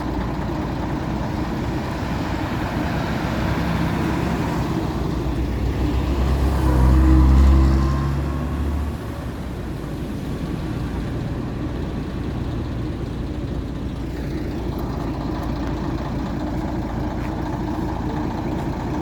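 Diesel bus engines running at a bus station, with one bus pulling away close by: its engine note rises to its loudest about seven seconds in, then falls back to the steady idling rumble of the other buses.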